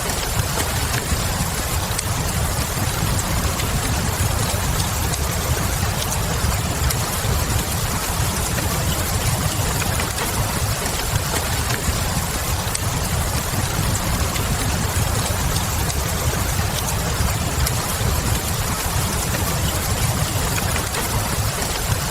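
Steady rain with a deep low rumble under it, and now and then the faint crackle of a wood fire.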